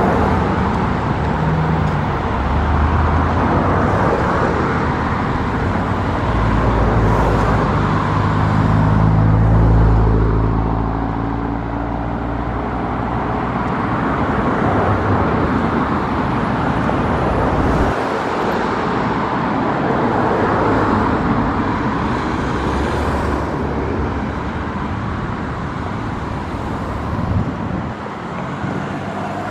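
Road traffic passing close by: a continuous wash of car and tyre noise, with a louder, deeper engine rumble passing about a third of the way through.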